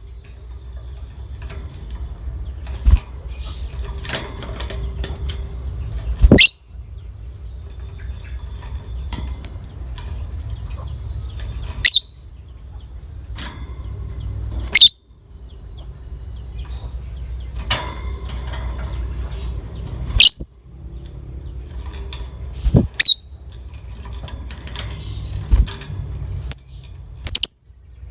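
Lovebird chirping and chattering, with a steady high-pitched tone behind it and sharp clicks every few seconds.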